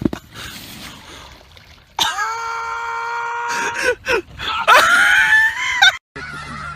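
A person screaming loudly twice. The first scream is held at one steady pitch for about a second and a half. The second, about a second later, rises in pitch and then holds.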